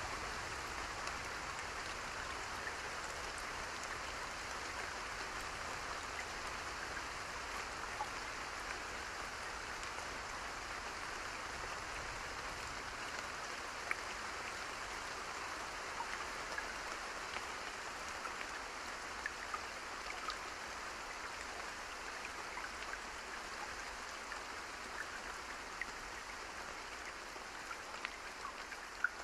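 Steady hiss of rain mixed with a crackling campfire: scattered sharp pops and snaps over the rain, a few louder ones about halfway through and near the end.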